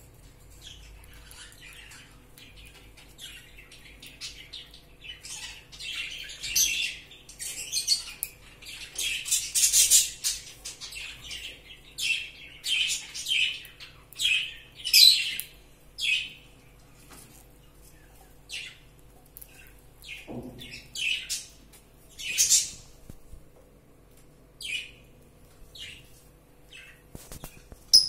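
Bird chirping: short, sharp, high calls in irregular runs that start a few seconds in, are busiest around the middle, and then thin out into scattered single chirps.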